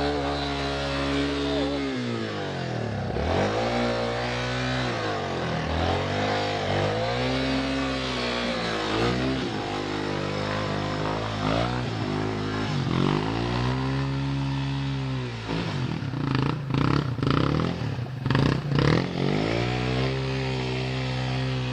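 Motorcycle engine revved up and let back down over and over, a rise and fall every two to three seconds, with a spell of clattering knocks about three quarters of the way through.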